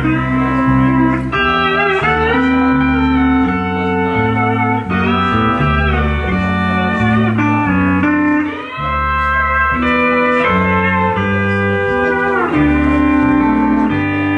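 Pedal steel guitar playing a slow country instrumental. Its sustained chords glide up and down in pitch as the pedals and bar bend them, over bass notes that change every second or so.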